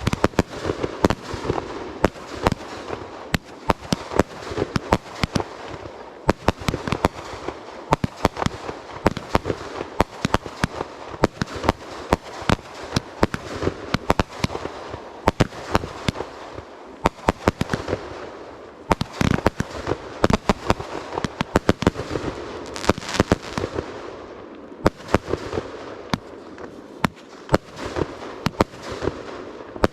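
Fireworks show: aerial shells bursting in rapid succession, several sharp bangs a second without a break, over a steady crackling haze.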